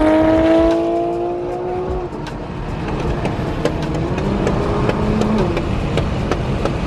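Nissan Skyline R32 GT-R's twin-turbo inline-six accelerating hard, heard from inside a neighbouring car. The engine note rises for about two seconds and breaks off at a gear change, then rises again through the next gear.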